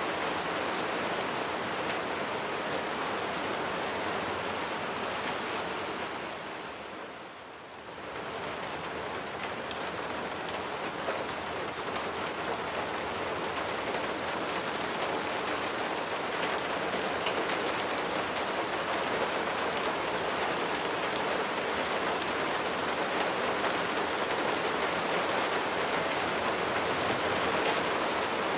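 Steady rain falling, with individual drops ticking through the hiss. About seven seconds in it fades down briefly, then comes back as before.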